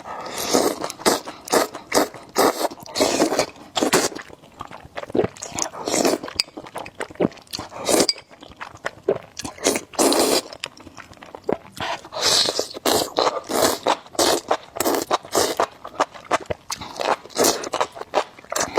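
Close-miked eating sounds: irregular wet chewing, smacking and crunching of food in the mouth.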